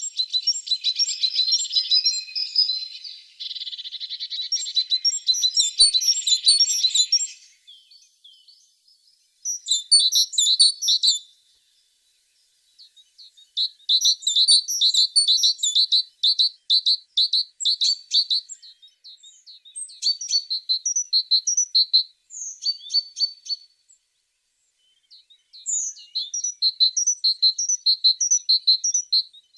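Blue tit singing: a string of fast, high trilled phrases, each a few seconds long, with short pauses between them.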